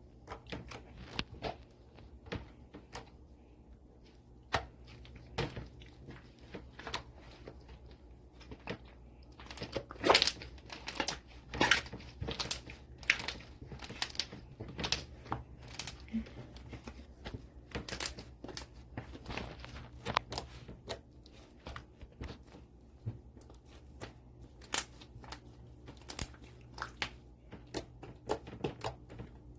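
Hands squishing and stretching blue slime, making irregular sticky clicks and pops throughout, some sharper and louder than others.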